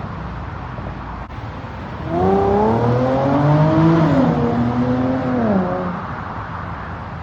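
2008 Infiniti G35x's VQ35HR 3.5-litre V6 breathing through a Stillen cat-back exhaust, idling, then revved once about two seconds in. It holds the revs for a few seconds and drops back to idle.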